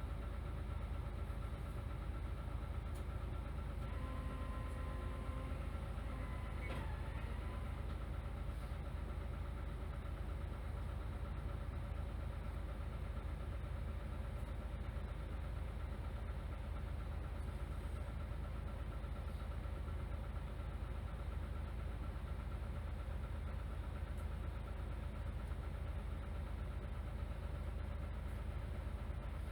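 Route bus diesel engine idling steadily, heard from inside the cabin, with a constant hum and faint whine. Short electronic tones sound from about four seconds in and stop after a brief glide about three seconds later.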